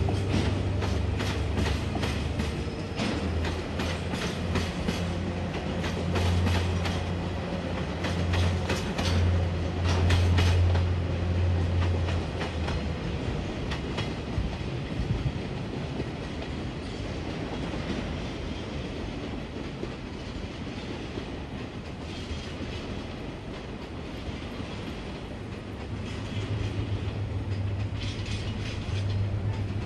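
Train running over rail joints: rapid clickety-clack of the wheels over a low steady hum, the clacking dying away after about twelve seconds and the hum coming back near the end.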